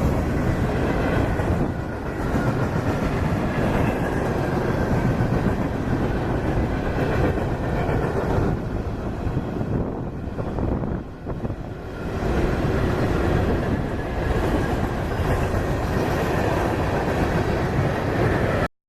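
Freight train passing, a loud steady rumble and rattle of the rail cars with a brief dip about eleven seconds in, cut off abruptly near the end.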